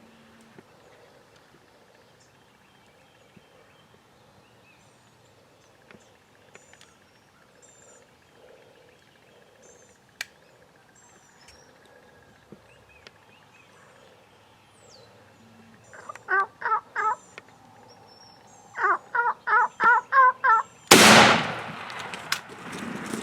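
Wild turkey gobbling twice, each gobble a fast rattling burst, over faint high songbird chirps; then a single loud shotgun blast near the end, the loudest sound, trailing off slowly.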